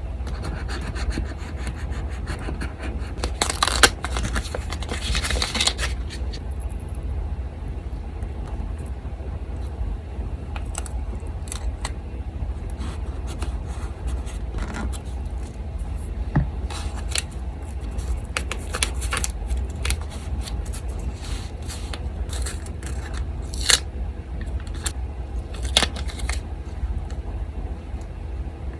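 Paper being handled on a desk: a long scraping and rubbing stretch of paper a few seconds in, then many short crisp rustles and clicks, over the steady low hum of an electric fan.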